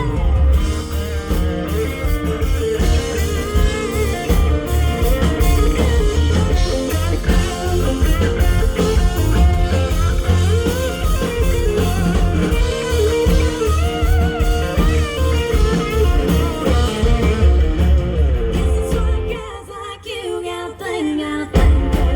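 Live band music with an electric guitar leading an instrumental break over bass and drums. About nineteen seconds in, the bass and drums drop out for a couple of seconds, then the full band comes back in.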